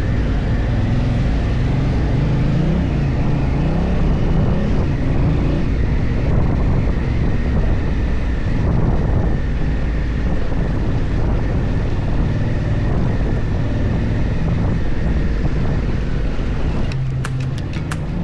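Honda Africa Twin motorcycle engine running at low, wavering revs while ridden slowly on a slippery track, with wind buffeting the microphone. Background music with a beat comes in about a second before the end.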